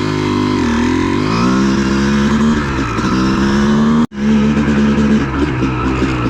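Honda CR250 two-stroke dirt bike engine running under way, its pitch rising as it speeds up early on and then holding steady. The sound cuts out completely for an instant about four seconds in.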